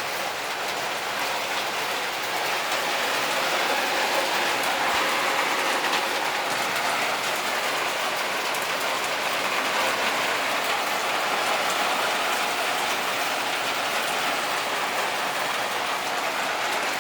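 Heavy storm rain pouring down steadily, with a slight swell a few seconds in.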